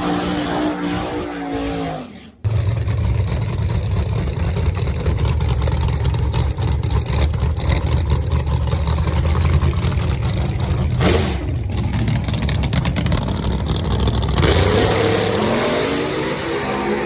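Drag race car engine at full throttle during a pass. The note falls over the first two seconds and breaks off suddenly. It then runs loud and steady at wide open throttle for about twelve seconds, with one sharp sweep in pitch partway through, and eases off near the end.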